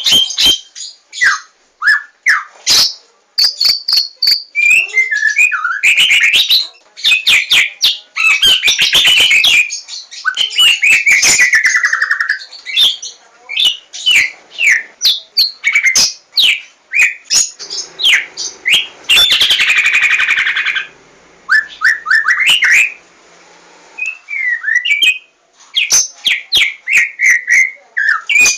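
White-rumped shama (Javan 'larwo' murai batu) singing: a rapid, varied run of whistled phrases, sliding notes and sharp clicks, with a harsh buzzy stretch a little past the middle and short pauses between phrases.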